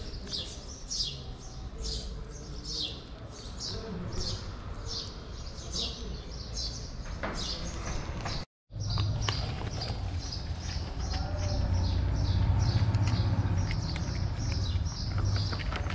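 Small birds chirping over and over, about two short high chirps a second, with a brief dropout just past halfway. After the dropout a low steady rumble comes in, and near the end there are faint crunching clicks of a cat chewing dry kibble.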